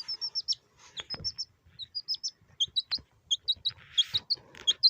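Domestic chick peeping: a string of short, high cheeps, about three or four a second, some dropping in pitch, with a couple of light knocks.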